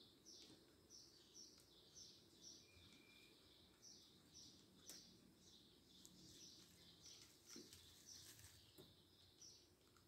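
Faint, repeated high chirps of a small bird, about two a second, each dropping slightly in pitch.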